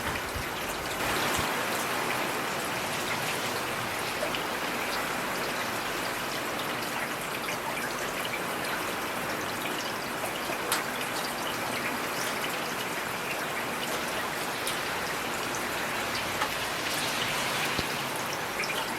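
Heavy rain falling steadily: an even hiss with scattered sharper ticks of single drops striking a surface.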